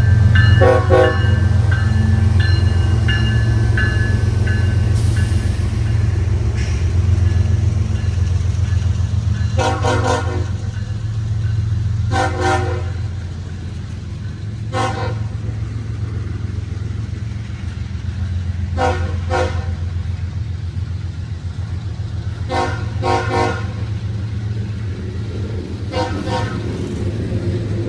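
Train passing with a steady low rumble. About seven short, sharp horn-like toots sound at irregular intervals of two to four seconds over the rumble. Faint steady high tones ring during the first few seconds.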